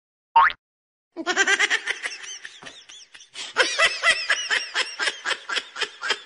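A brief high-pitched squeal about half a second in, then a long run of laughter in quick high-pitched bursts, several a second, each rising and falling in pitch.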